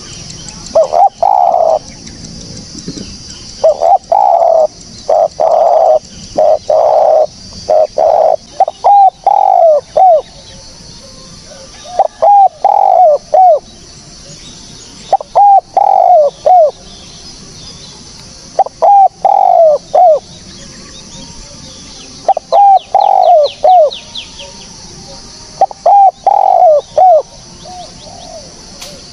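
Spotted dove (tekukur) cooing: a clear, loud phrase of several notes, each ending in a falling curl, repeated about every three to four seconds.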